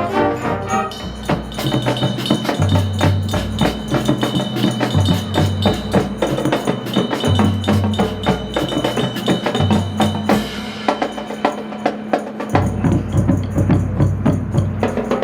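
High school marching band's percussion section playing a fast, busy drum groove over a repeating stepping bass line. The horns drop out about a second in.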